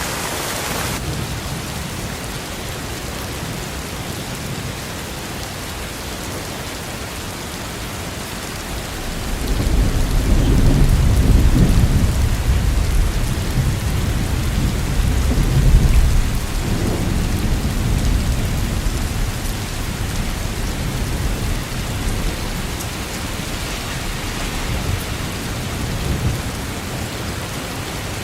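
Steady rain with a long roll of thunder that builds about a third of the way in, is loudest around the middle, and slowly dies away.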